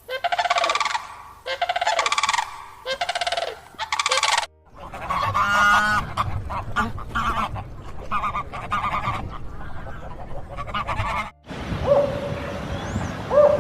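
Goose honking: a run of about five loud, evenly spaced arching honks. After a sudden cut comes a noisier stretch with a brief rapid rattling call, then another cut to a steady tone with swooping calls.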